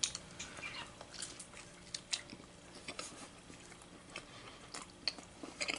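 A person chewing chunks of cooked chicken: faint, irregular wet clicks and smacks of the mouth at work.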